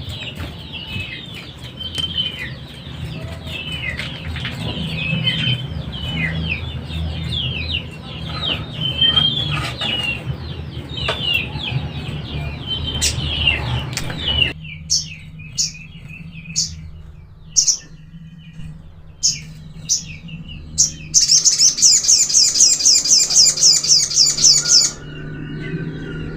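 Sogon (little spiderhunter) calling: a busy run of short chirps over background noise, then, after a cut about halfway, sharp high single chips about a second apart, and near the end a rapid high trill lasting about four seconds that stops abruptly.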